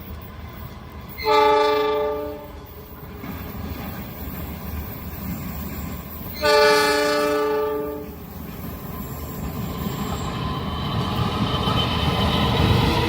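Diesel train's locomotive horn sounding two long blasts about five seconds apart, then the rumble of the train growing louder as it approaches.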